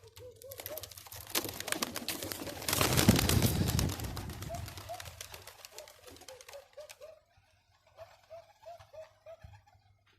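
Domestic pigeons cooing, a run of short repeated coos. A loud burst of rustling and clattering runs from about one and a half to four and a half seconds in, drowning the coos at its peak.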